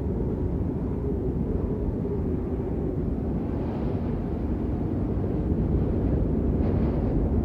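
Continuous rain noise, muffled and deep: a steady low rumbling hiss with no separate drops heard.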